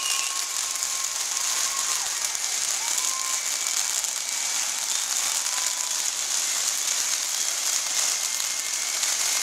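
Spark-spraying fireworks on a hat giving a continuous dense crackling hiss, like heavy rain. Three times a short whistle-like tone rises and then holds a steady pitch for a moment.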